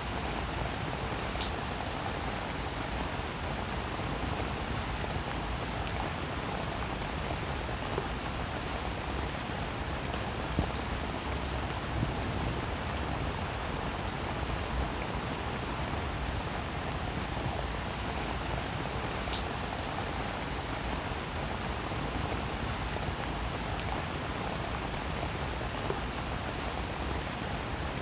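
A steady, even hiss like rain falling, with scattered faint ticks.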